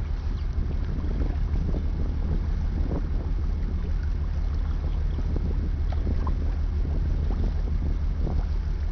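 Wind buffeting the microphone outdoors, a steady low rumble with faint rushing above it.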